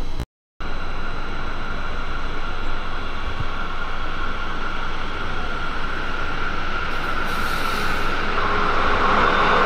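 A freight train of hopper wagons hauled by two electric locomotives approaching. A steady rolling rumble with a high whine grows louder toward the end. The sound cuts out briefly near the start.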